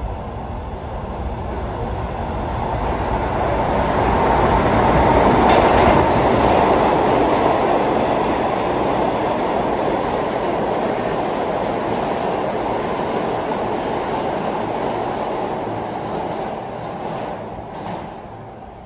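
R160 subway train passing through the station without stopping: a rising rush of wheels on rail that peaks about six seconds in, holds, then fades away over the last few seconds.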